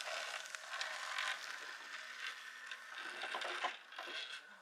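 Electric dirt bike riding by, a steady motor whine over tyre noise with scattered small clicks, fading near the end.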